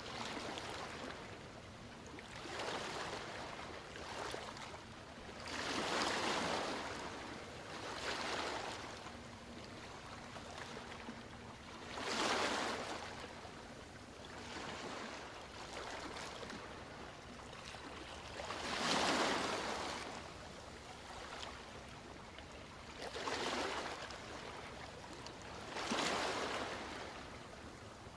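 Ocean waves breaking and washing ashore, the surf swelling to a loud surge about every six to seven seconds, with smaller waves in between.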